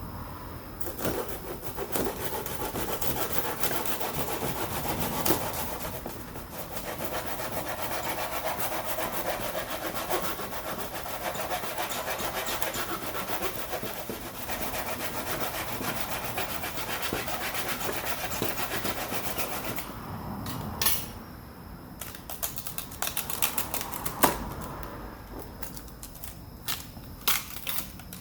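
Bonfire burning with a dense, steady crackle. After about 20 s it thins to scattered sharp pops and cracks.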